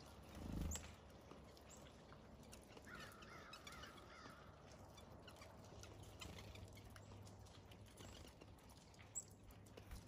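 Near silence with a soft low thump about half a second in, then a faint wavering bird call lasting about a second and a half from about three seconds in, and a small click near the end.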